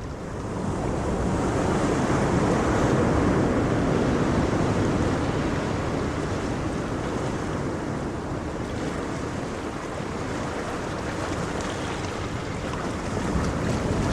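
Ocean waves breaking on a shore: the surf swells about a second in, eases off in the middle and builds again near the end.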